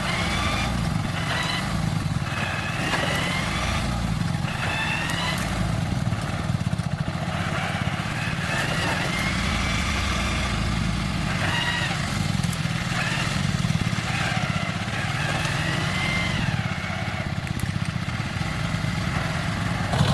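Small tractor engine running steadily with a rapid low putter, with thin gliding high-pitched calls coming and going over it.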